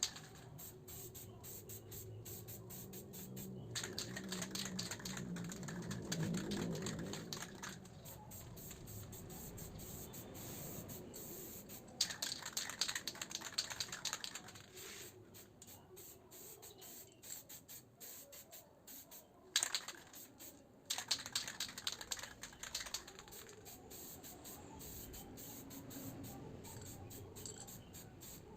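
Aerosol spray paint can hissing in three bursts of a few seconds each, with quieter gaps between them.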